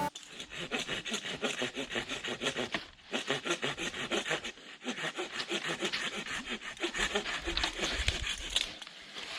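Hand saw cutting through wood in quick, even back-and-forth strokes, pausing briefly about three seconds in.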